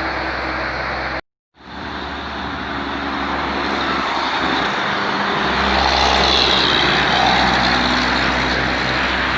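Heavy diesel dump truck engine running, growing louder and peaking about halfway through with a high whine on top. The sound cuts out completely for a moment about a second in.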